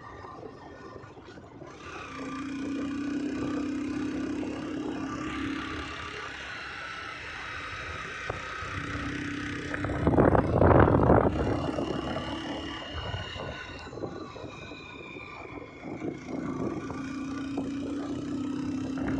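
Motor vehicle driving along a road, its engine running with a whine that shifts in pitch. A loud rush of noise swells about ten seconds in, then fades.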